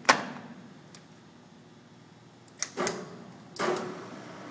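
Metal clunks from the Kingston engine lathe's control levers being shifted: one sharp clunk right at the start, a light tick, then two more clunks near the end, over a faint steady hum. The lathe is being switched from longitudinal feed to threading.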